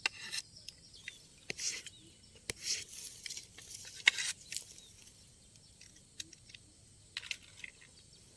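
Irregular rustling and crackling of dry vegetation being handled by hand as a patch of ground is cleared for a dove trap, with a few sharp snaps among the rustles.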